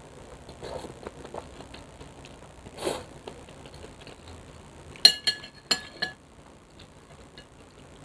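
An eating utensil clinking against a bowl, four sharp ringing clinks about five seconds in, with quieter eating noises around them.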